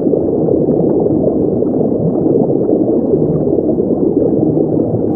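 Underwater ambience: a steady, muffled rush of water noise, with no musical notes over it.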